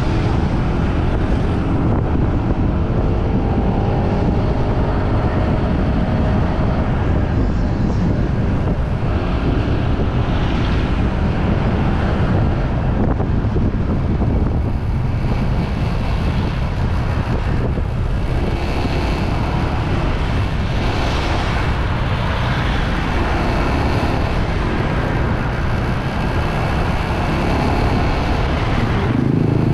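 Riding a motorbike: steady wind rushing over the microphone, with the bike's engine and road noise underneath.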